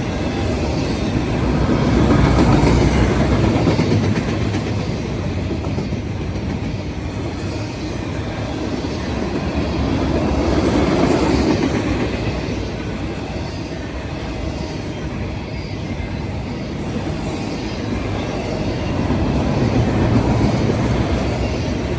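Freight train cars rolling past on the track: a continuous rumble of steel wheels on rail that swells and eases a few times.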